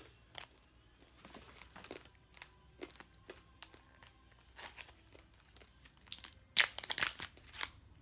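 Irregular crinkling and clicking, like something being handled. The loudest part is a cluster of sharp crackles from about six and a half to seven and a half seconds in.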